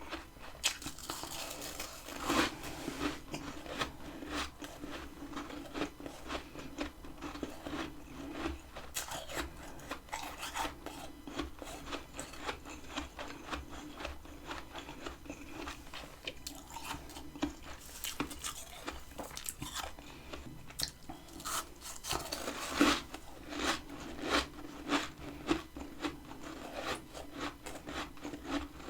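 Freezer frost being bitten and chewed close to the microphone: a dense run of crisp, crackling crunches, with louder bites about two seconds in and again about 23 seconds in.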